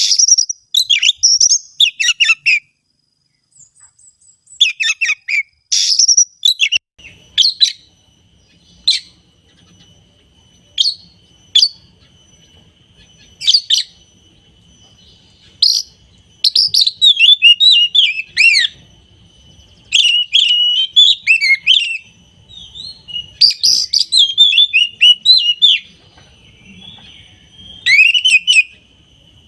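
Oriental magpie-robin (kacer) singing: loud bursts of quick, high, varied whistled and chattering phrases, broken by short pauses.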